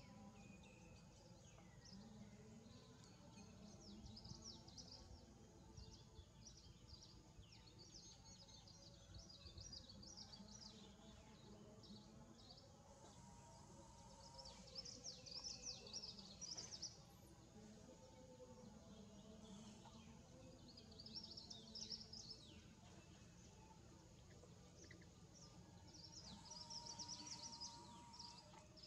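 Faint birdsong: small birds chirping in clusters of quick high notes among the trees, busiest about halfway through and near the end, over a low steady rumble.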